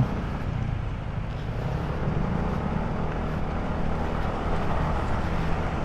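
Motor scooter running steadily while riding, with steady wind and road noise on the camera's microphone.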